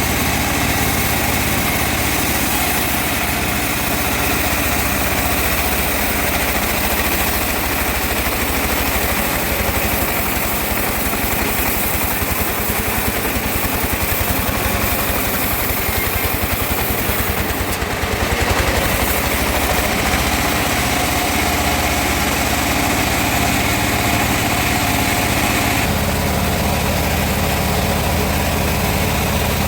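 Sawmill engine running steadily, with a brief louder, brighter stretch about 18 seconds in and a deeper sound from about 26 seconds on.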